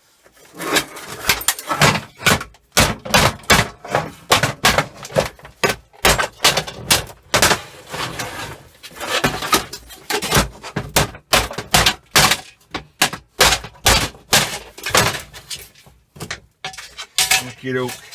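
Hammer striking the metal housing of an old salon hood hair dryer: an irregular run of sharp metallic knocks and clatters, several a second, with short pauses between blows.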